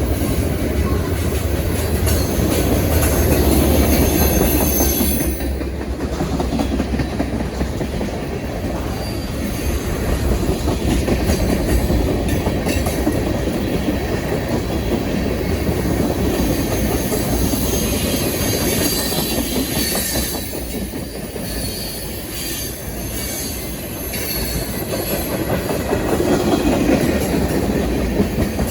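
Freight cars of a long mixed manifest train rolling slowly past upgrade, the wheels clacking over the rail joints with intermittent high wheel squeal.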